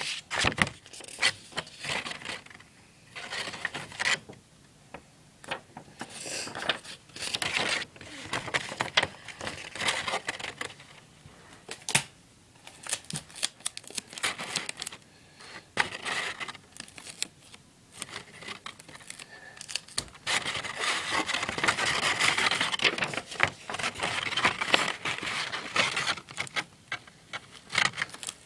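Paper rustling and crinkling as a folded-paper house is handled, with scattered small clicks and taps and a longer stretch of steady rustling near the end.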